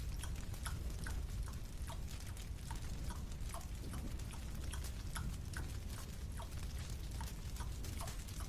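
A person chewing a marshmallow slowly, with wet mouth clicks at an even pace of about two a second, over a steady low hum.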